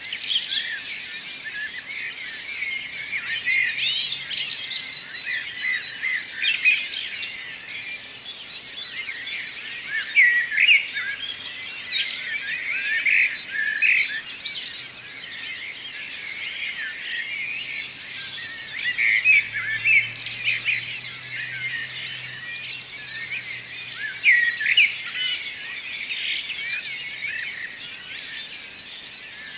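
Many birds singing at once in a morning chorus, a dense, unbroken overlap of chirps and short songs.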